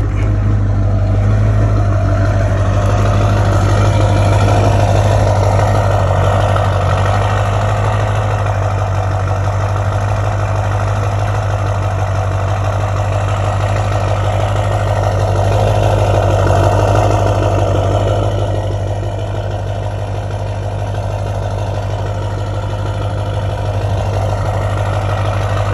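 High-mileage Duramax LB7 6.6-litre V8 turbo-diesel idling steadily just after a cold start, easing a little quieter about three-quarters of the way through.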